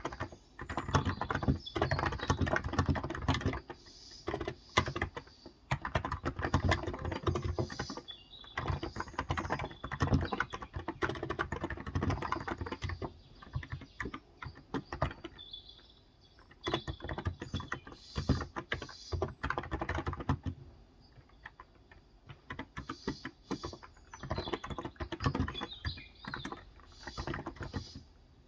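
Fast typing on a Cox Endeavor electro-capacitive (Topre-style) tenkeyless keyboard with light 35 g keys: dense runs of muted keystrokes in bursts, broken by short pauses, and sparser and quieter in the last third.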